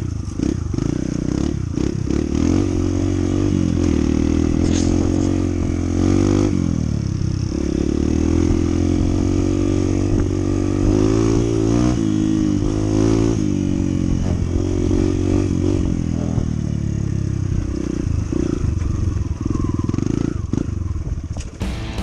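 Honda CT125's single-cylinder four-stroke engine running while the bike is ridden, its engine speed rising and falling.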